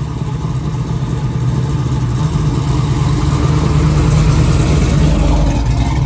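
Chevrolet Nova SS V8 engine running at low speed as the car rolls slowly past at close range, growing louder as it nears.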